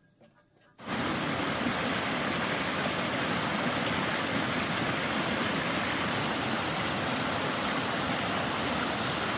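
Stream water rushing steadily, starting abruptly about a second in.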